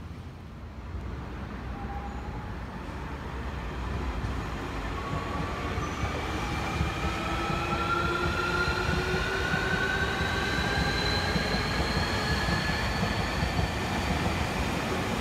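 Electric commuter train running past on the rails, its low rumble growing louder over the first several seconds. From about five seconds in, a steady whine rises slowly in pitch over it.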